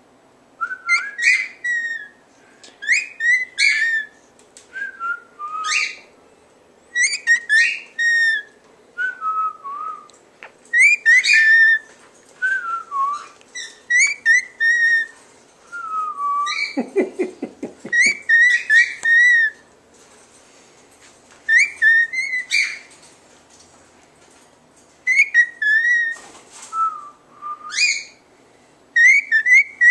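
Pet bird whistling its song: short, repeated phrases of gliding high notes with brief pauses between them. About halfway through there is a brief, lower voice-like sound.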